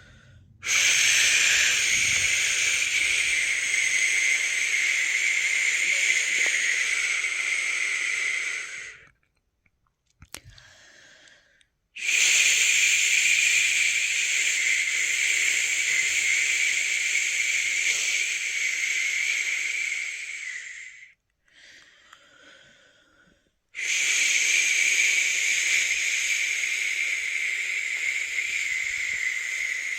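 A person making a long, steady "shh" shushing sound, the shush of the shush-pat method used to lull a newborn to sleep. It comes as three shushes of about eight or nine seconds each, with short pauses between them.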